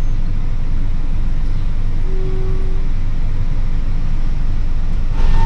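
Steady low rumble of an Isuzu truck's engine and road noise, heard inside the cab while it creeps along in heavy traffic, with a brief faint tone about two seconds in.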